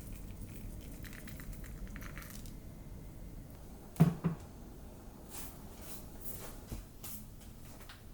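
Handling noises: rustling and crinkling as things are moved about, with two quick knocks close together about four seconds in.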